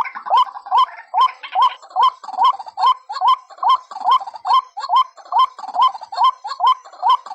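White-breasted waterhen calling: a rapid, regular series of short rising 'kru-ak' notes, about two and a half a second, each ending in a sharp click.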